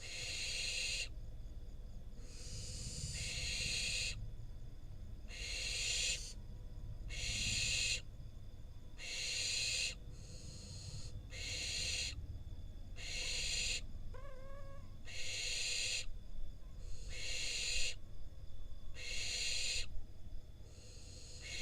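Young barn owls making hissing, screeching begging calls, a harsh hiss about every second and a half. A short, higher chirping call comes about fourteen seconds in.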